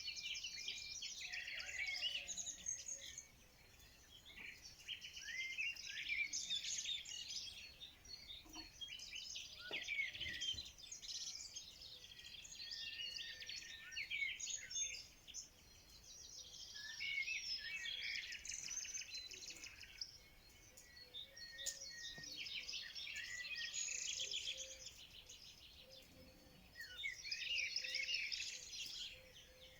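Several songbirds singing together: rapid, overlapping chirps and trills in waves that swell and fade every few seconds.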